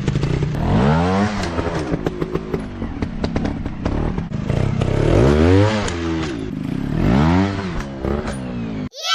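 Off-road motocross bike engines revving up and falling back several times, with clattering and scraping throughout.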